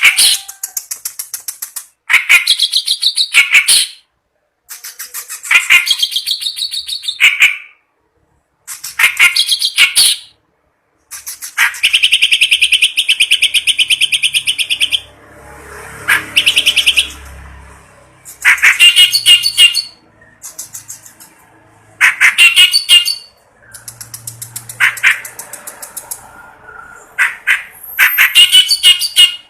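Kerak basi reed warbler singing loudly in repeated bursts of harsh, rapid chattering phrases a second or two long with short pauses between, including a long, fast, even trill near the middle.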